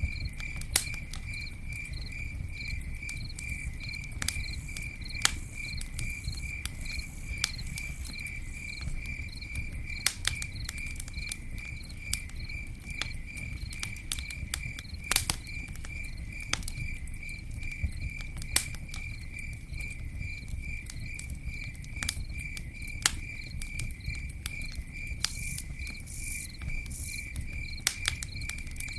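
Campfire crackling, with scattered sharp pops over a low steady rumble, while a cricket chirps in a steady rhythm a few times a second.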